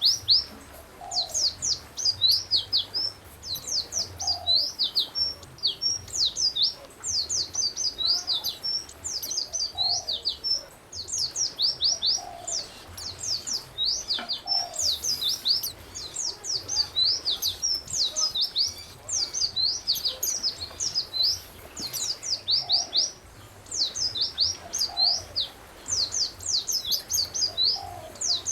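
Songbirds singing: fast runs of high, sharp chirps in short bursts, one after another, with a fainter, lower call every couple of seconds.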